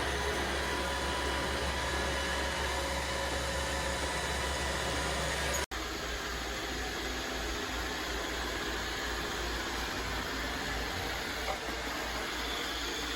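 iRobot Roomba 692 robot vacuum running: a steady whirring of motor and brushes, cut off for a split second a little past halfway and then going on.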